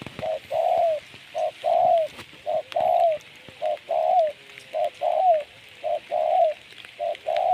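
Spotted dove (tekukur) cooing over and over, about once a second: each call a short note followed by a longer note that drops at its end, over a steady hiss.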